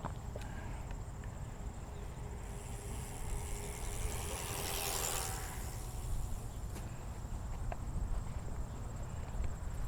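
Outdoor ambience: a steady low rumble with a thin, steady high-pitched whine over it, and a hiss that swells and fades between about three and six seconds in.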